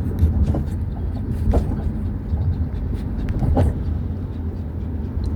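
Car cabin road noise while driving: a steady low rumble of engine and tyres, with a few light knocks and rattles.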